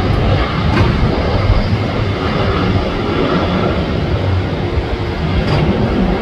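Jet airliner engine noise: a loud, steady rumble with hiss, holding level throughout.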